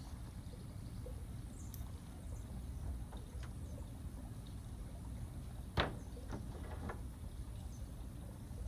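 Steady low rumble of wind on the microphone, with one sharp snap about six seconds in and a few fainter clicks around it.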